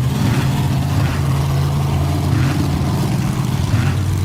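A motor-vehicle engine running at a steady low drone with a hiss over it.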